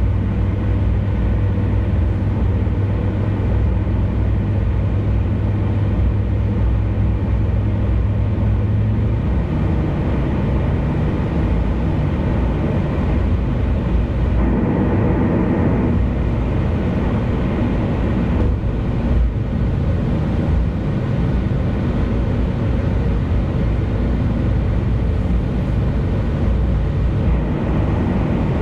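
Car driving on an expressway: steady road and engine noise. A low hum drops out about nine seconds in, and the rushing noise swells for a few seconds about halfway through.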